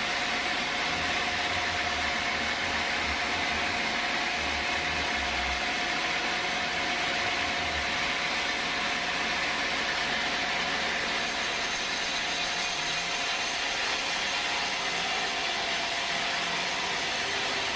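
Sawmill machinery running steadily: a continuous mechanical noise with a steady whining tone and no change in level.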